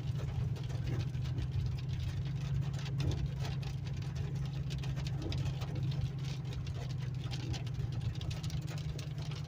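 Car engine and road noise heard from inside the cabin while driving slowly: a steady low hum with faint scattered clicks.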